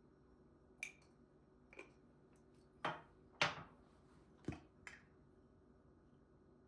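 Kitchenware being handled: six short clinks and knocks, the loudest about three and a half seconds in, a couple with a brief ring.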